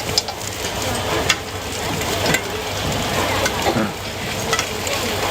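Food frying with a steady sizzle, with sharp clicks about once a second.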